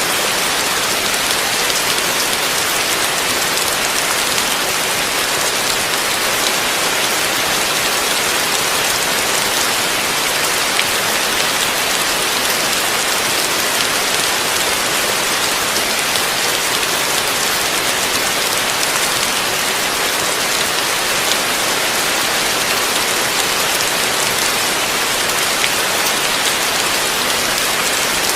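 Heavy rain falling steadily, a dense even hiss with no breaks or thunder.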